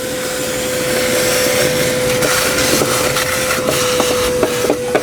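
Wet/dry shop vacuum running steadily with a constant hum, sucking water out of the flooded car interior, with a few short pops in the second half.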